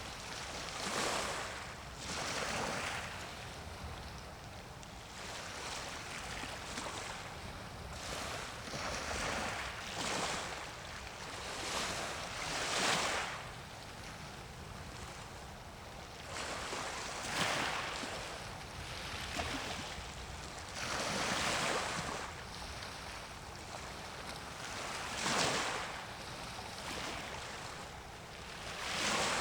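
Small waves washing in on the shore in irregular swells of hiss every few seconds, over a steady low rumble.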